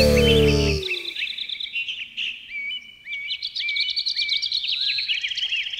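Background music ends about a second in with a long falling tone. Then birds chirp and twitter with many short, quick, high calls for the rest of the time.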